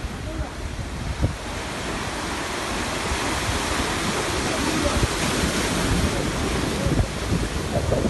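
Sea waves washing in, the wash swelling over several seconds, with wind buffeting the microphone.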